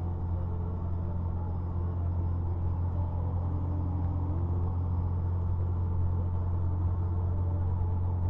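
Semi truck's diesel engine running at a steady low drone, with road noise, while driving.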